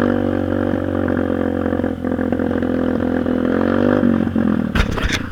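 Dirt bike engine running with a steady drone, its pitch rising briefly and then dropping about four seconds in. Near the end the drone gives way to irregular clattering knocks.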